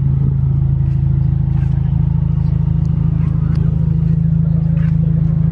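Jeep Grand Cherokee Trackhawk's supercharged 6.2-litre Hemi V8 idling with a steady, low exhaust note.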